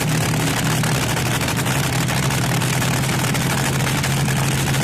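Vintage fuel dragster's engine idling steadily with a fast, even pulse.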